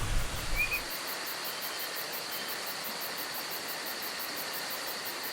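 Outdoor ambience of insects calling steadily: a continuous high whine together with a fast, even, very high pulsing of about four beats a second. A single short chirp comes about half a second in.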